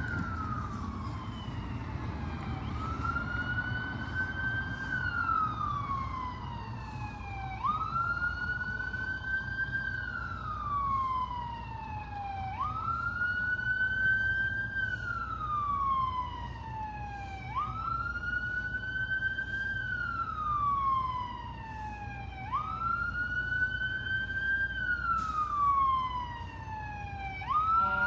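Siren on a holiday parade truck wailing in a repeating cycle: each sweep climbs quickly, holds briefly at the top, then glides slowly down, about every five seconds, over a low steady rumble.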